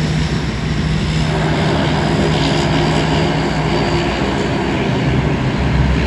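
Turboprop airliner engines and propellers running loud, a steady low drone over a broad roar.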